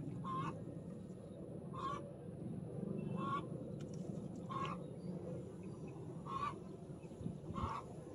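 A bird gives six short calls, evenly spaced about one and a half seconds apart, over a steady low background noise.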